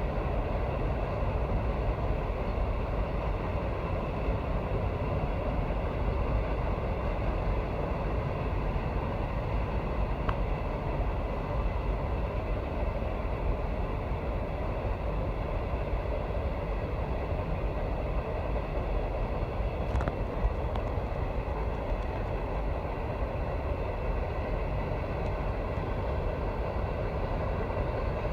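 Empty coal train rolling past: a steady noise of steel wheels on rail, with a faint high ringing tone and two sharp clicks, about ten and twenty seconds in.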